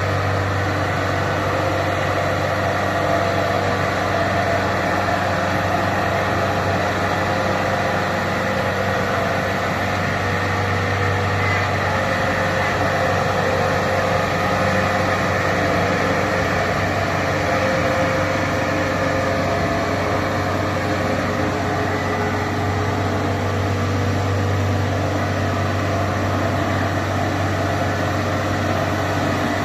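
Kubota DC70 Plus rice combine harvester's diesel engine running at a steady, unchanging speed, with a low hum and a higher steady whine.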